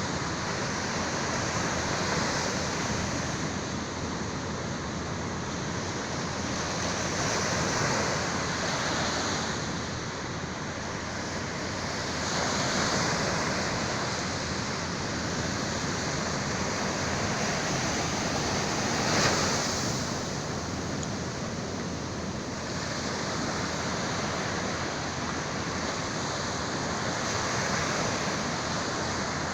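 Sea waves breaking and washing ashore in slow, surging swells every few seconds, one breaker louder than the rest about two-thirds of the way through.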